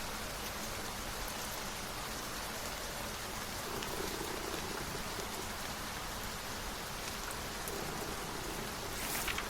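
Steady rain falling on a surface, an even hiss with scattered drop patter, and a brief brighter swish near the end.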